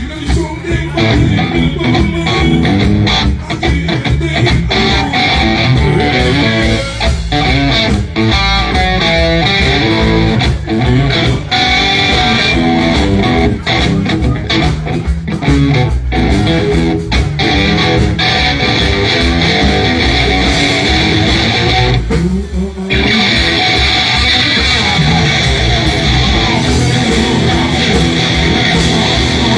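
Live blues band playing an instrumental passage, electric guitar over bass guitar and drums.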